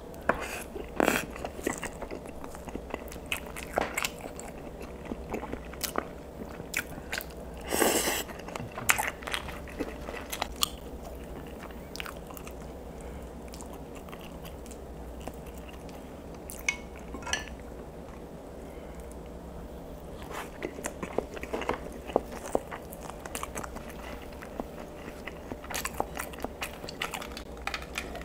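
Close-miked eating sounds: bites and wet chewing of fried pink sausage slices, a string of short mouth clicks and smacks, with one louder, longer burst about eight seconds in.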